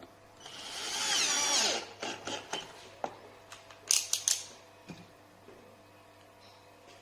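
Angle grinder motor running briefly for about a second and a half, then stopping, followed by several sharp clicks and knocks.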